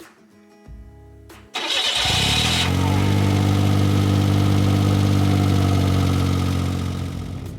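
Suzuki Jimny JA12's three-cylinder engine cranked and catching about a second and a half in, then settling into a steady idle that eases slightly near the end.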